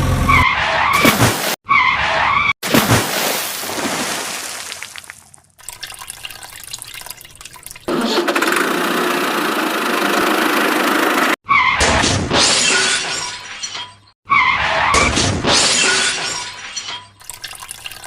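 Water splashing and rushing, as toy vehicles drop into a stream, in short cut-together bursts. Sudden splashes come near the start, at about two and a half seconds, and twice more in the second half, with a steady rush of running water in between.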